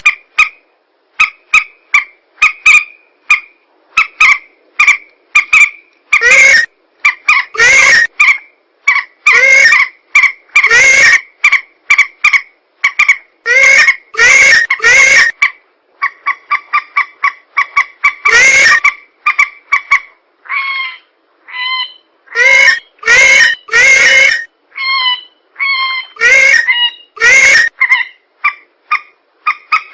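Recorded lure calls of swamp birds, mandar rails and pelan, played back loud for bird trapping. Rapid series of short, clipped pitched notes run on without pause, broken every second or two by loud, harsh screeching calls.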